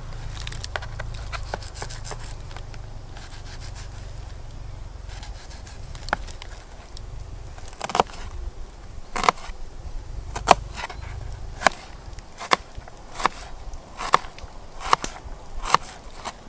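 A knife cutting an onion, first with quiet scraping, then from about halfway on with sharp chopping knocks about once a second.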